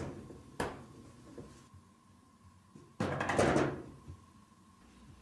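A sharp knock about half a second in, then a louder clattering bang about three seconds in, like a door or cupboard being knocked about.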